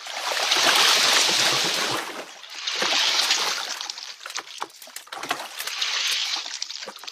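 Water sloshing and splashing in three swells of rushing noise, the first and longest at the start, a second about three seconds in and a shorter one about six seconds in.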